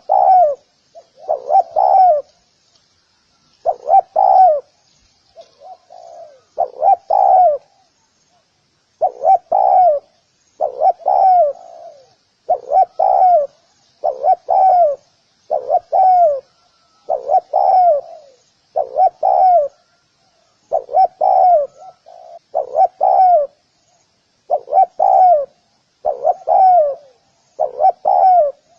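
Spotted dove cooing: a short phrase of two or three falling coos, repeated about every two seconds. Faint high chirping runs underneath.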